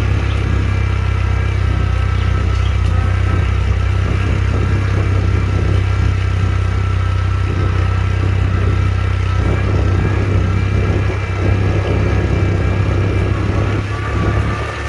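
Honda Trail 125's single-cylinder engine running steadily under way, with a steady low drone and a thin higher whine, easing slightly a couple of times near the end.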